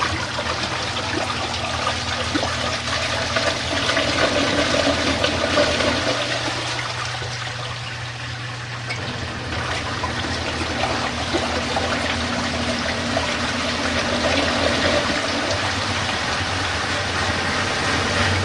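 Water rushing out of a portable twin-tub washing machine's lowered drain hose as the tub empties, a steady gushing flow over a low, steady hum.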